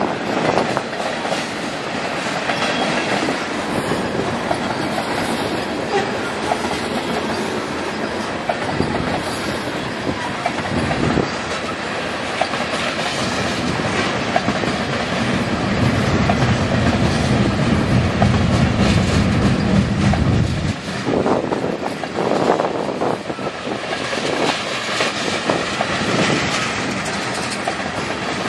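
Freight cars of a Canadian National manifest train, covered hoppers and tank cars, rolling past steadily, with scattered clicks of wheels over the rail joints. A low hum joins about halfway through and cuts off sharply some six seconds later.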